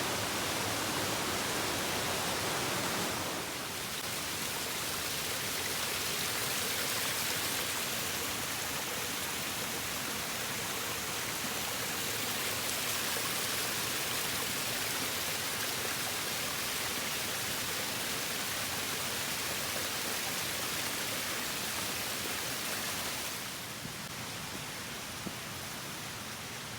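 Rushing water, a steady even hiss of a mountain stream and falls, which changes tone and drops slightly about three seconds in and again near the end.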